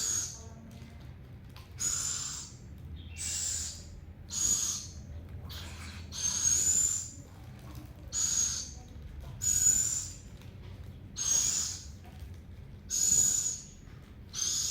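An owl giving repeated hissing, wheezy begging calls, about one every second and a half, each with a thin high whistle in it: a hungry owl asking for food.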